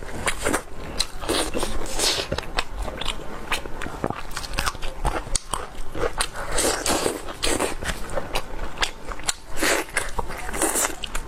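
Close-miked eating: biting and chewing with wet smacking and crackly clicks, in quick irregular bursts throughout.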